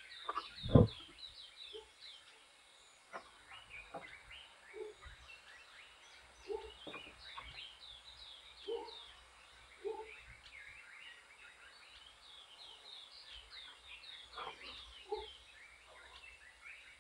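Wild birds calling together: many short, high, falling chirps overlap throughout, with short low calls repeating every second or two. A single loud sharp knock sounds about a second in.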